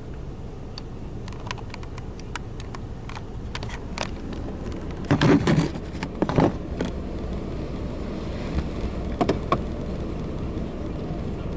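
Car engine idling, heard from inside the cabin, with scattered sharp clicks and a few loud short knocks or rustles about halfway through.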